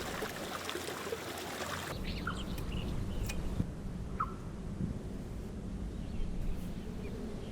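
Steady wind noise outdoors in the snowy mountains, with a few short bird chirps, two of them clearest about two and four seconds in.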